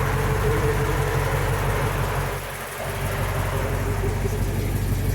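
Rebuilt Chevy 396 big-block V8 idling steadily, its level dipping briefly about halfway through.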